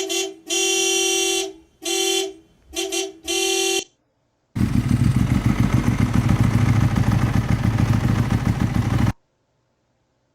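A car horn honks about five times, one longer honk among shorter ones. After a short gap a vehicle engine runs loudly with a fast pulsing beat for about four and a half seconds, then cuts off suddenly.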